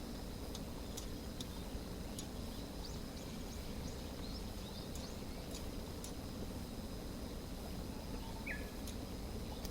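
Wood campfire crackling with scattered sharp pops over a steady outdoor background, with a few short bird chirps, one of them near the end.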